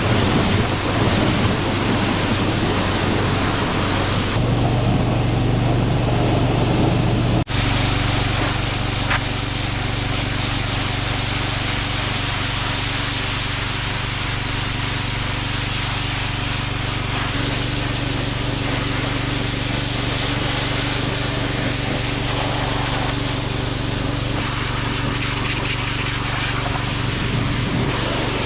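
Gas-engine pressure washer running steadily, with the hiss of its water spray.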